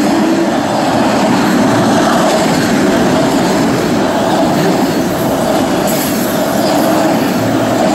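Autorack freight cars rolling past: a steady, loud noise of steel wheels running on the rails.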